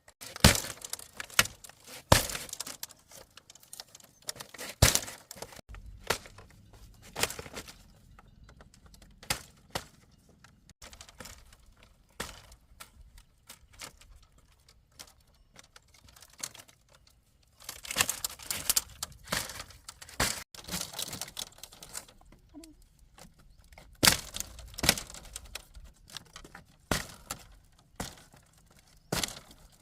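Irregular sharp cracks and knocks from hand work on bamboo, coming in clusters with quieter gaps between.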